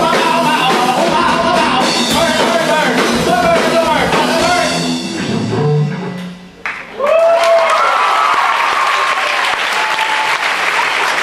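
Live rock band with vocals playing the last bars of a song, ending with a low closing note about five and a half seconds in. After a brief hush the audience breaks into applause and cheering.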